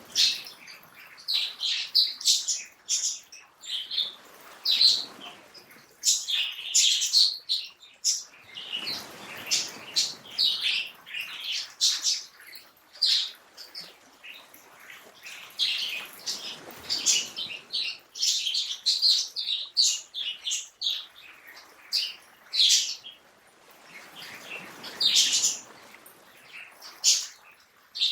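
Many small birds chirping and calling, short bright notes coming thick and fast, over a soft rushing background that swells and fades every few seconds.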